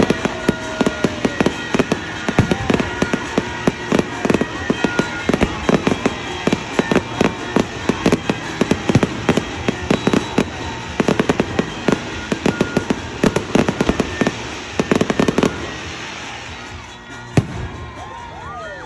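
Fireworks display: a dense, rapid barrage of crackling bangs from bursting shells, dying away about three-quarters of the way through, then a single sharp bang near the end.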